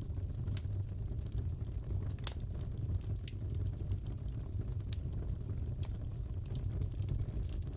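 Fireplace crackling: a steady low rumble of burning wood with scattered sharp pops and snaps, the loudest pop about two seconds in.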